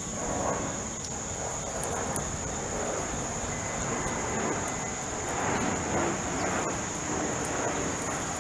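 Backyard ambience: a steady high-pitched insect drone over a low outdoor rumble that swells about half a second in and again around five to six seconds in.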